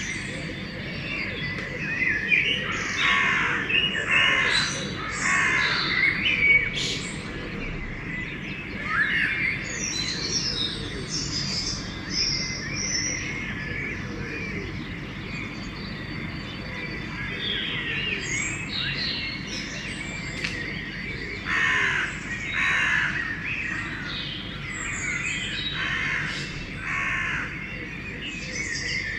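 Dawn chorus of songbirds chirping and singing throughout, with crows cawing in repeated harsh calls in two bouts, a few seconds in and again a little past two-thirds of the way through.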